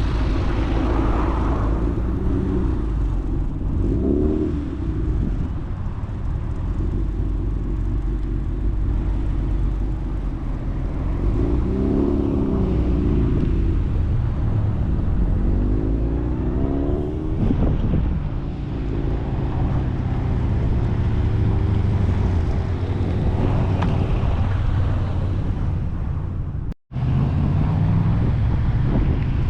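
Kit cars driving past one after another, each engine rising and falling in pitch as it goes by, over a steady low rumble. The sound cuts out for a split second near the end.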